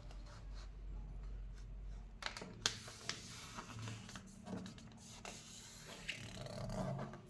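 A square sheet of paper being handled and folded in half: soft rustling with a few short, crisp crackles as it is pressed and creased, the sharpest a cluster a little over two seconds in.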